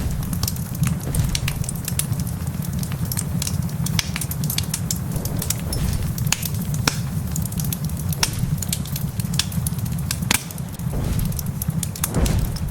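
Wood fire crackling in a fireplace, with frequent sharp, irregular pops over a steady low rumble.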